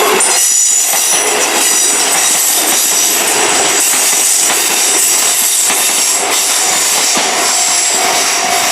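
Izuhakone Railway Sunzu Line train passing over a level crossing at close range: a steady loud rush of running noise, wheels clacking over the rail joints and a thin high squeal from the wheels.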